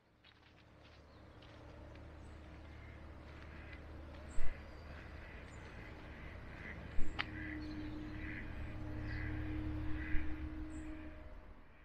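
Birds calling in a long run of repeated calls over a low rumble that slowly grows louder, with a few brief knocks.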